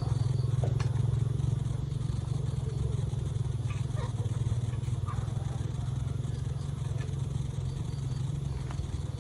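A small engine running steadily with a low, even drone that slowly grows quieter, with a few faint clicks and faint animal or bird calls over it.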